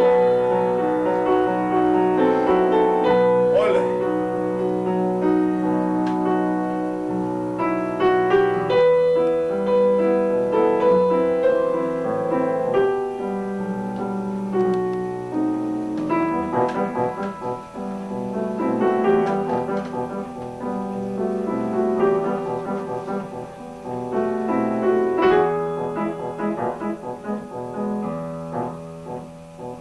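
Piano playing a melodic, classical-style piece, notes held and changing, with some louder chords.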